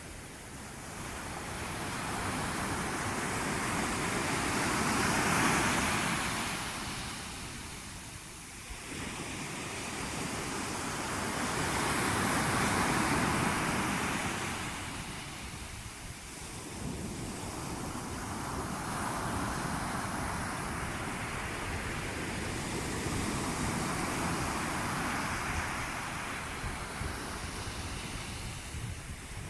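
Sea waves surging in and washing back, a rushing noise that swells and ebbs in long waves about every eight seconds.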